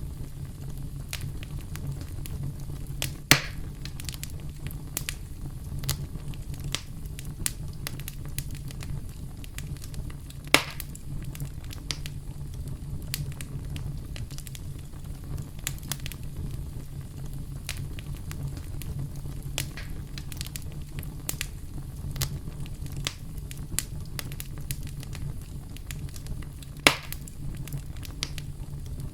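Campfire crackling: a steady low rumble of burning with scattered sharp snaps and three louder pops from the burning wood, about three seconds in, ten seconds in and near the end.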